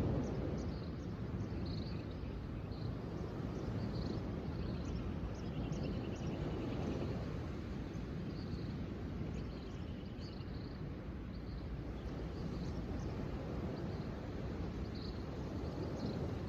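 Outdoor nature ambience: a steady low rushing noise with small birds chirping intermittently over it, including a brief trill about six seconds in.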